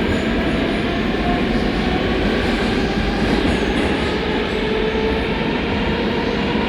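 Rusich (81-740/741) articulated metro train running between stations, heard from inside the car: a steady rumble of wheels on rail under a faint whine from the traction motors that slowly changes pitch.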